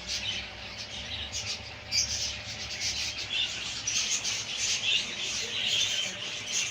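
A flock of small cage birds chirping and twittering together, many short high calls overlapping without a break.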